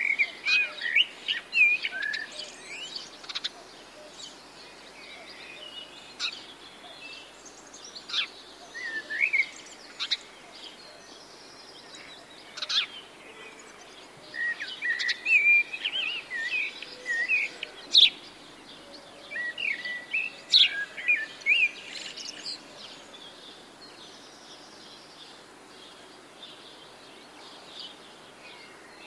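Songbirds chirping and calling in scattered bursts of short, quick notes, with a few sharp ticks among them, over a faint steady background hiss. The calls thin out near the end.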